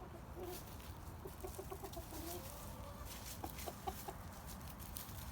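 Backyard hens clucking softly as they forage: a run of short, low clucks about a second in and a few more near four seconds, over a faint low rumble.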